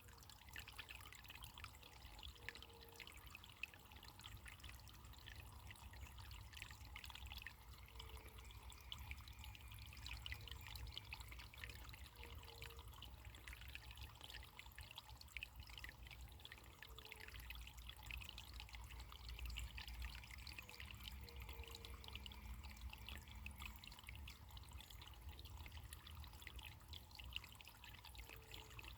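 Quiet, steady trickling of running water, a small stream or brook flowing over stones.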